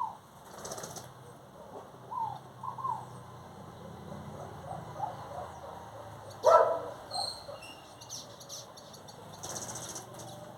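Birds calling with short falling chirps, then a louder, harsher call about six and a half seconds in. A brief rushing noise comes near the end.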